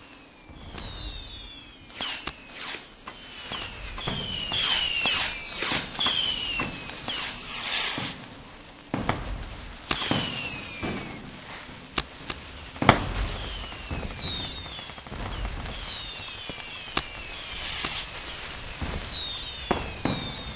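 Fireworks going off in quick succession: many sharp bangs and crackles mixed with short whistles that fall in pitch, with one louder bang about two-thirds of the way through.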